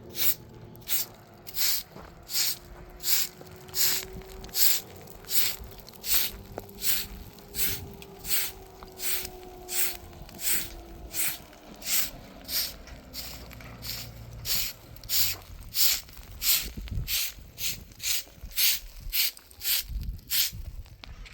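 Rhythmic swishing strokes of a bristle brush or broom scraping a surface, about two a second, kept up without a break.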